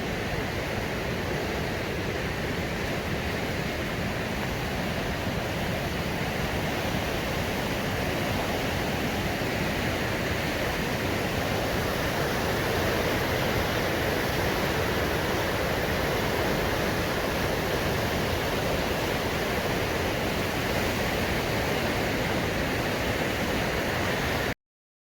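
River rapids at a watermill rushing steadily, ending with a sudden cut-off near the end.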